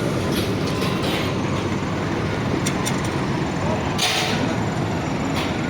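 Heavy truck's diesel engine running steadily, with a short hiss about four seconds in.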